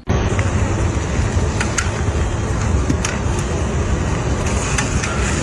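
Machinery running: a steady rumble with a few sharp clicks.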